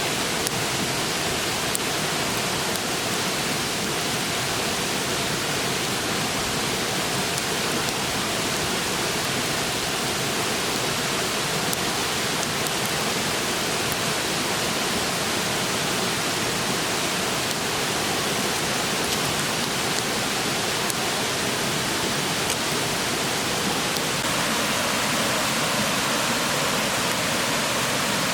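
Steady rushing of a clear river flowing close by, with a few faint crackles from the wood fire.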